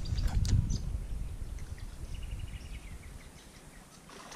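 Wind buffeting the microphone in a low rumble that dies away over the first three seconds, with a bird's short rapid trill of high ticks about two seconds in.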